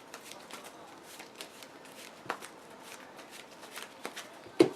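Cardfight!! Vanguard cards being handled and shuffled on a tabletop: soft scattered clicks of cards, with a sharper tap near the end.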